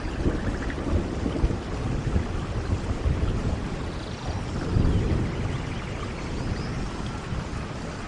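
Steady rain with low rolling thunder rumbling underneath, swelling about halfway through.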